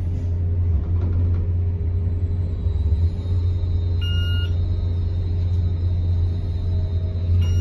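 Mansion traction elevator car travelling down, with a low steady drone in the car. Two short electronic beeps sound, about four seconds in and again near the end, typical of the elevator's floor signal.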